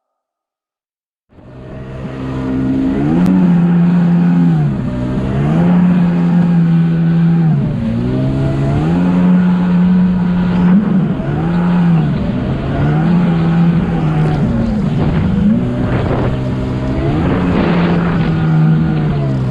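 Jet ski engine running hard, its revs repeatedly rising and falling about every two to three seconds. It cuts in suddenly about a second in.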